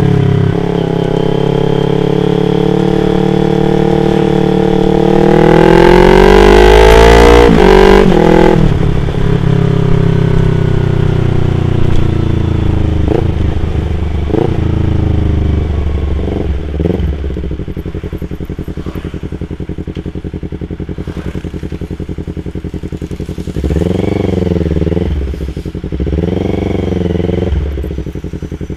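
Yamaha R25's parallel-twin engine revving up under acceleration, its pitch climbing to a peak about seven seconds in, then falling as the bike slows, with a few quick blips. It settles to a low steady run, then gives two short throttle blips near the end.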